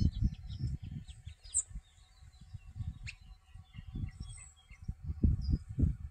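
Small birds chirping and calling with many short notes, over an uneven low rumble that is strongest at the start and swells again near the end.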